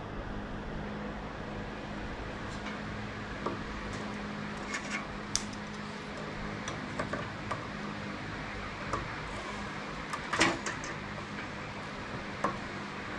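Scattered light metal clicks and taps from hand tools working a link out of a go-kart chain, over a steady low hum; the sharpest tap comes about ten seconds in.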